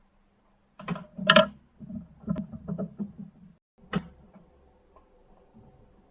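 A series of sharp clicks and knocks of hard parts being handled, the loudest about a second in, a last sharp click about four seconds in, then a faint steady hum.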